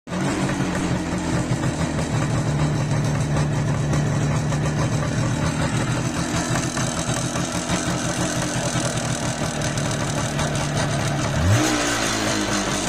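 IZh Jupiter-5 motorcycle's two-stroke twin-cylinder engine idling steadily, with a ringing knock that the owner puts down to the pistons. Near the end the throttle is blipped once, the pitch rising briefly before it settles back to idle.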